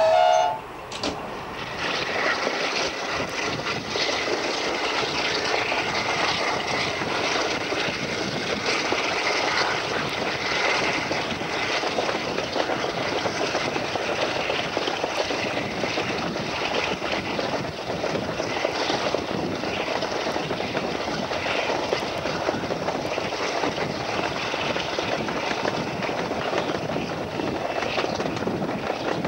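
A train horn's sustained chord cuts off in the first second, followed by the steady rushing noise of a diesel-hauled passenger train running along the line, heard from an open carriage window.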